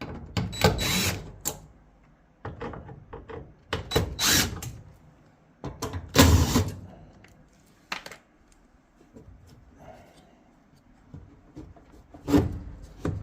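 Dryer sheet-metal parts and hand tools being handled during disassembly: four loud bursts of clattering and scraping with small knocks between them.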